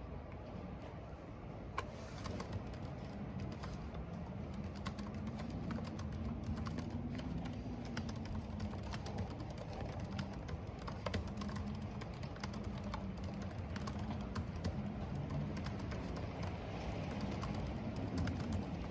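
Computer keyboard typing: a stream of irregular keystroke clicks over a steady haze of wind and rain, with a low wind howl that slowly wavers in pitch.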